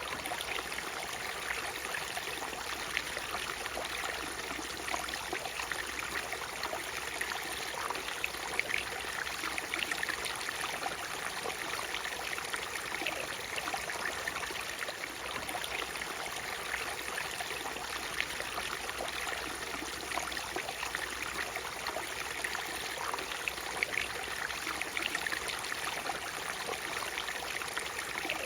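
Natural waterfall: water rushing and splashing steadily, with many small splashes flickering through an even rush and little low rumble.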